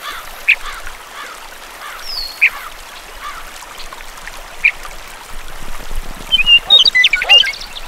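Birds calling over a steady background hiss: single short chirps every two seconds or so, then a quick burst of louder calls near the end.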